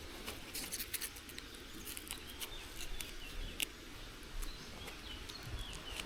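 Quiet outdoor ambience: faint bird chirps through the middle and latter part, with scattered sharp clicks and ticks over a low rumble.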